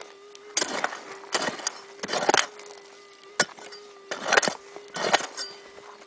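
Gold metal detector's steady threshold hum, with about six harsh scrapes and strikes of a pick digging into the ground on a strong signal that is still in the hole.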